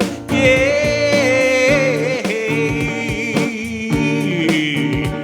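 A male singer holds a long, wavering "yeah" that slides down near the end, over a band backing track with drums, in a cover of a pop ballad TV theme.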